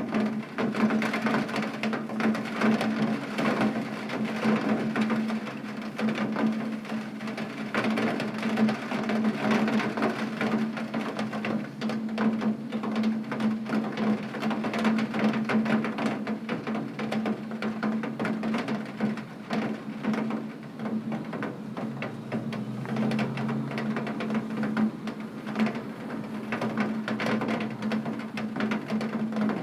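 Heavy rain on a window, a dense patter of many small drop impacts over a steady rushing hiss, with a steady low hum running underneath.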